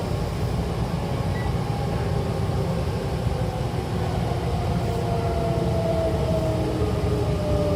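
Hankyu commuter train running, heard from inside the car: a steady low rumble from wheels and track, with a faint motor whine that slowly falls in pitch as the train slows toward the station.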